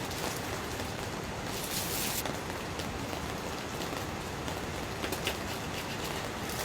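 Steady rain falling on a tent, with brief louder rushes about two seconds and five seconds in.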